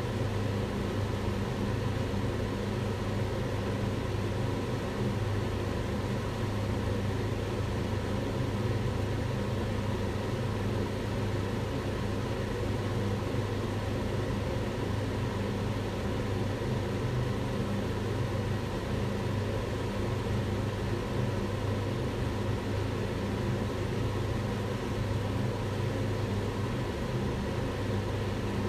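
Kitchen range hood extractor fan running steadily: a constant whooshing of air over a low motor hum, with a few faint steady tones.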